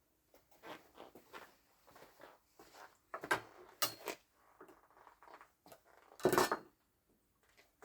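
Small metal parts of a robotic lawnmower wheel motor being handled during disassembly: a string of irregular clinks, knocks and scrapes, with the loudest knock about six seconds in.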